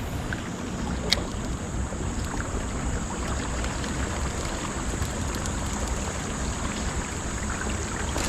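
River current rushing and lapping around a fishing kayak, with wind on the microphone; a single sharp click about a second in.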